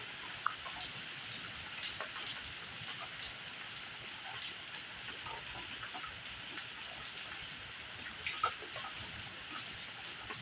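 Steady rain falling in a thunderstorm, an even hiss with scattered sharper ticks of drops, a couple of them about eight seconds in.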